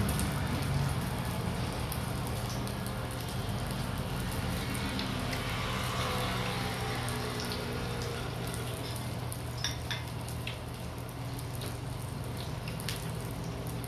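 Skewers sizzling steadily in a hot pan, with a few light clicks near the end.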